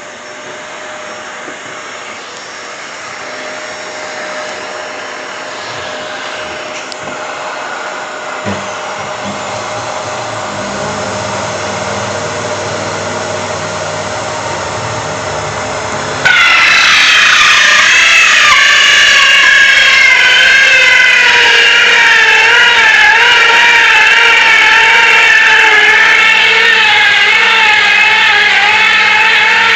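Electric drill running steadily and slowly growing louder. About halfway through, loud music cuts in abruptly and takes over.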